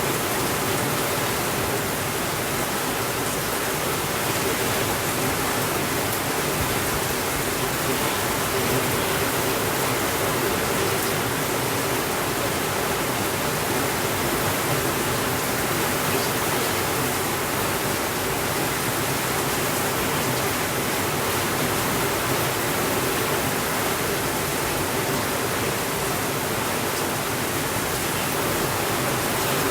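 Steady rainfall: a dense, even hiss with no changes.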